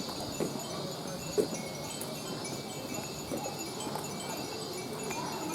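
Wind chimes tinkling in scattered short high tones, over a low murmur of people's voices.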